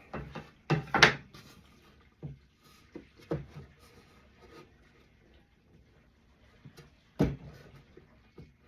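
Wooden box parts knocking and clacking as they are handled: a handful of sharp knocks, the loudest about a second in and another strong one about seven seconds in.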